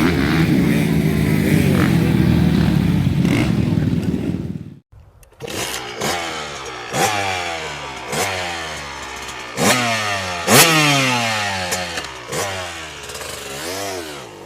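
Motocross bike engine sound: a steady, busy engine drone that cuts off abruptly about five seconds in. Then one bike revs in a string of sharp throttle blips, roughly once a second, its pitch falling away after each.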